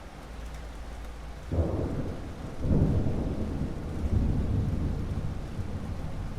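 Thunder over steady rain: a low rumble breaks in about a second and a half in, swells again a second later, and rolls on, slowly fading.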